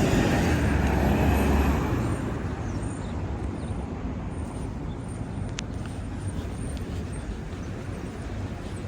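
Road vehicle noise: a loud low rumble that fades after about two seconds to a steadier, quieter hum, with a single sharp click a little past halfway.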